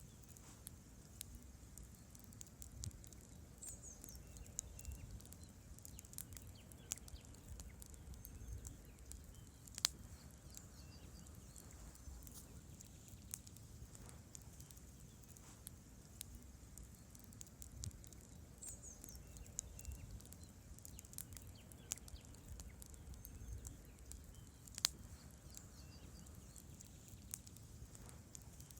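Campfire of burning logs crackling, with irregular sharp pops over a low steady rumble; the two loudest pops come about a third of the way in and again near the end. A faint bird chirps twice.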